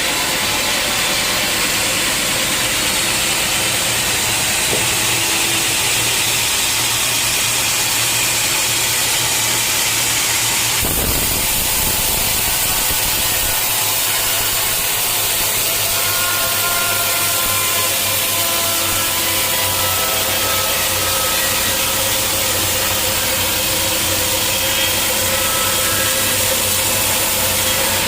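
Sawmill machinery running steadily: an engine-driven saw giving a continuous mechanical noise with a hiss over it.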